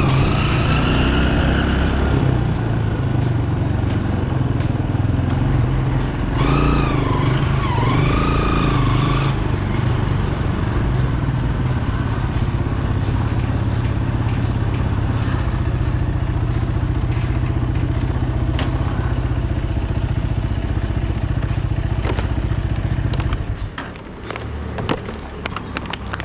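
Bajaj Pulsar 200's single-cylinder engine running under way, with a steady low rumble. Two warbling tones sound over it, one at the start and one about seven seconds in. Near the end the engine sound drops away, followed by scattered clicks and knocks.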